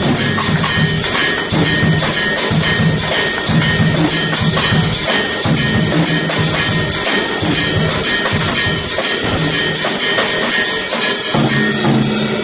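Drum kit playing a Latin groove adapted from timbale patterns, a rumba feel built on a clave rhythm: a constant cymbal wash over regular drum strokes.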